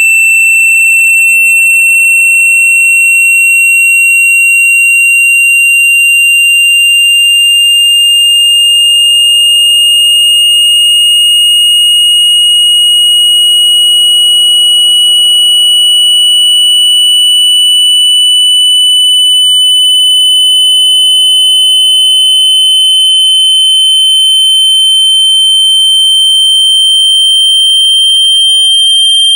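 A loud, steady electronic sine tone, a generated water-eject speaker-cleaning sound meant to vibrate water out of a phone speaker grille. Its pitch rises slowly and evenly throughout.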